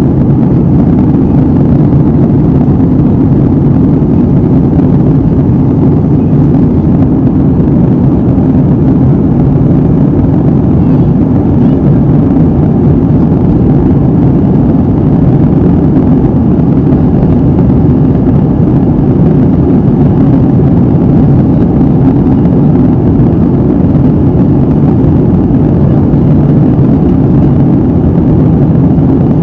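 Steady cabin noise of an airliner in cruise, heard from a window seat: a constant low rumble of engine and airflow noise that never changes.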